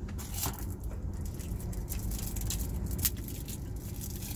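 Close-miked chewing of a burger with crispy onion rings: a dense run of small crunching clicks, over a steady low rumble inside the car cabin.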